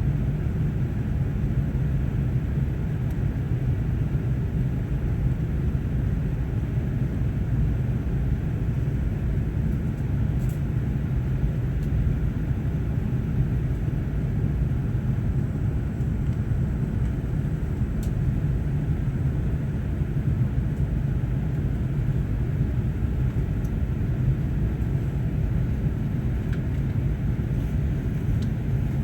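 Airbus A380-861 airliner heard from inside the passenger cabin: a steady low rumble of engine and airflow noise that holds level throughout, with a couple of faint ticks.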